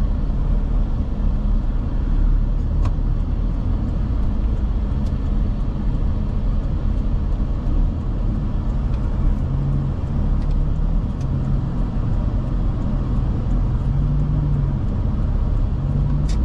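Car engine and road rumble heard from inside the moving car, a steady low drone with the engine note shifting slightly near the end.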